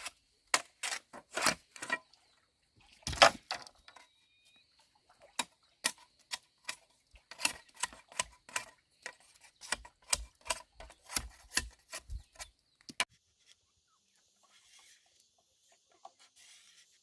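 An irregular run of sharp knocks and clacks, like hard objects being struck or handled, a few with a duller thud underneath. It stops about thirteen seconds in.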